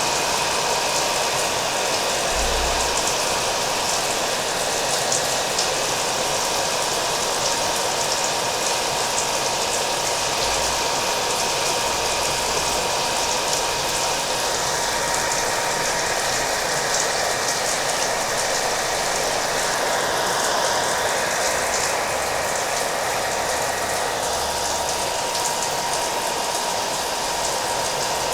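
A hair dryer running steadily, with a thin whine held at one pitch, mixed with continuous rain.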